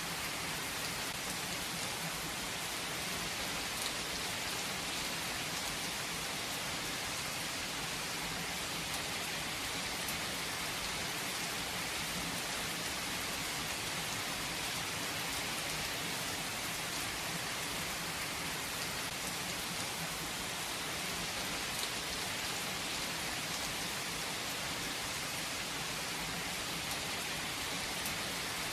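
Steady rain falling on surfaces: an even hiss with faint scattered drop ticks.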